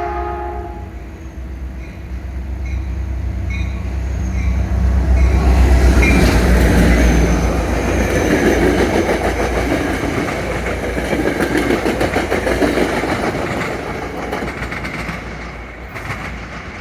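Caltrain F40PH-2CAT diesel locomotive's horn chord cutting off in the first second, then the locomotive's diesel engine rumbling and the train passing, its wheels clicking over the rail joints. The passing noise is loudest about five to eight seconds in and fades near the end.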